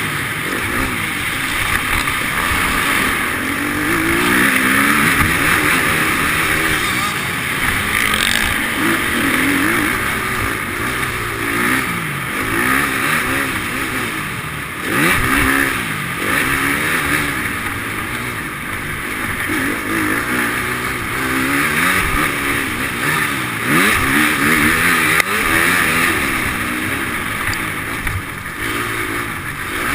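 Motocross bike engines revving up and falling back again and again, the pitch rising and dropping every second or two as the throttle is opened and closed.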